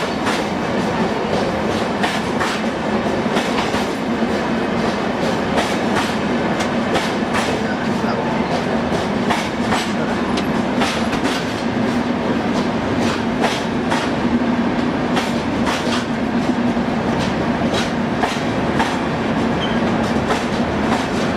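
Passenger train running past at speed, its wheels clacking over rail joints in a steady stream of sharp clicks over a continuous rumble.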